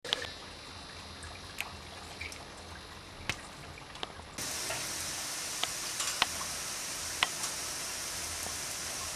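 Water spraying and pattering as a pet cockatiel is showered, growing suddenly louder about four seconds in, with scattered sharp ticks of drops.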